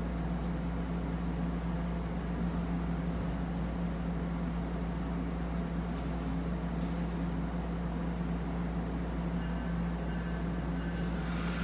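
Stationary NJ Transit electric commuter train of multilevel coaches, with an ALP46 locomotive, standing at the platform and giving off a steady low hum. Near the end, faint higher tones and then a hiss join in.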